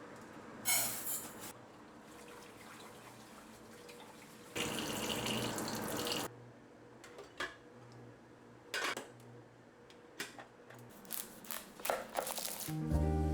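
Water running from a tap in short spells: a brief gush about a second in and a longer run of nearly two seconds in the middle, followed by scattered small clicks and knocks. Music with plucked strings and percussion comes in near the end.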